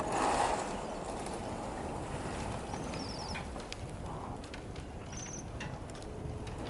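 Bohemian waxwings giving their high, trilled calls: two short trills, about three seconds in and again about five seconds in, over a steady background hum.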